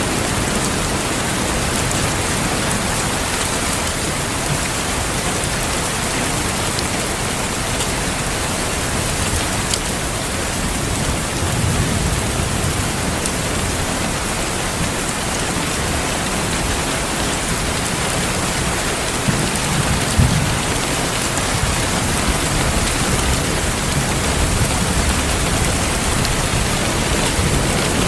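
Steady, heavy rain as an even hiss, with low rumbles of thunder swelling around twelve and twenty seconds in.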